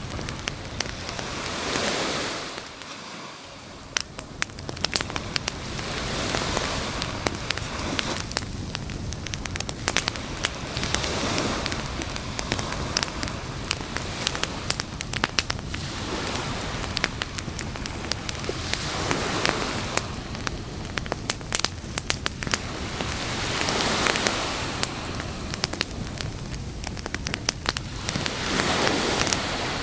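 Campfire crackling with frequent sharp pops, over the wash of waves on a beach that swells and ebbs about every four to five seconds.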